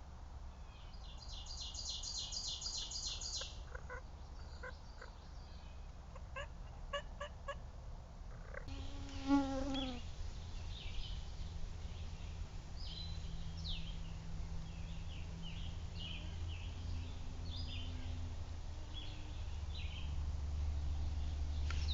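Wild birds calling in woodland: a fast high trill early on, a short call sliding downward about nine seconds in, then many short high chirps, over a low steady background rumble.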